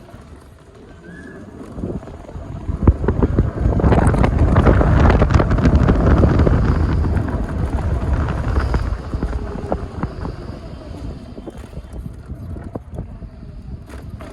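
Wind buffeting the microphone while riding an electric scooter, a rumbling roar with crackles that swells loud about four seconds in and eases off after about eight seconds.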